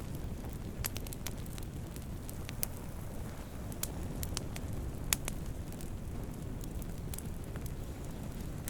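Wood fire burning with a steady low rumble of flames and scattered sharp crackles and pops, two louder snaps about two and a half and five seconds in.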